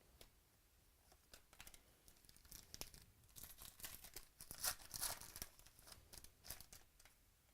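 Faint crinkling and tearing of a foil trading-card pack wrapper being opened, a run of sharp crackles that is loudest in the middle.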